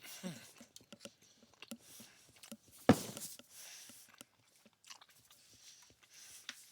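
A person chewing and biting a mouthful of chicken alfredo penne pasta close to the microphone, with wet mouth smacks and small clicks. About three seconds in there is one loud sharp knock.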